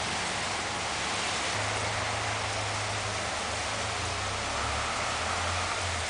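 Heavy thunderstorm rain falling steadily, with a low rumble underneath starting about a second and a half in.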